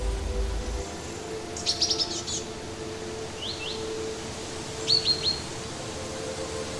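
A bird chirping in short, quick, falling notes: a rapid run of several about one and a half seconds in, a pair near the middle, and three more about five seconds in.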